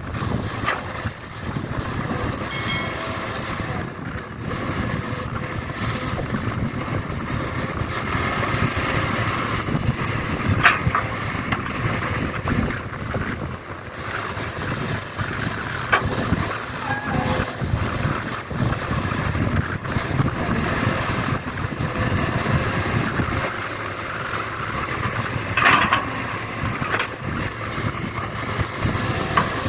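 Excavator working at a steady din, with a sharp knock or squeal twice.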